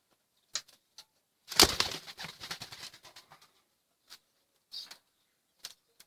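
Pigeons' wings flapping in a short loud burst about a second and a half in, with scattered sharp taps before and after.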